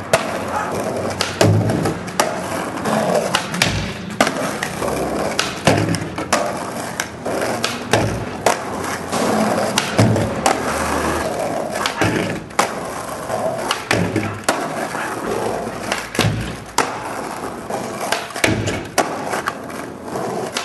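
Skateboard wheels rolling, broken by many sharp clacks and thuds of the board hitting the ground from tricks and landings.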